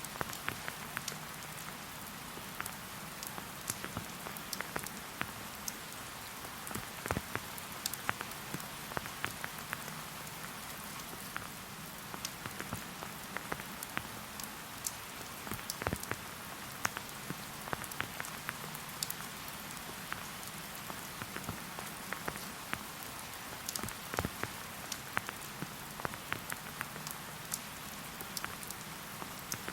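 Steady rain falling in a forest, an even hiss of rainfall with many individual drops ticking and tapping close by at irregular moments.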